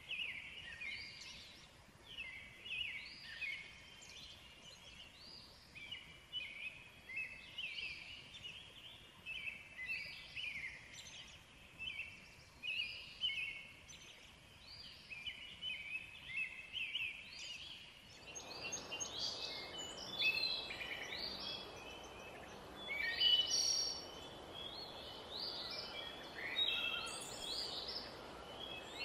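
A chorus of birds calling over one another, short high calls about once a second or faster. About two-thirds of the way through, a steady rushing hiss comes in underneath.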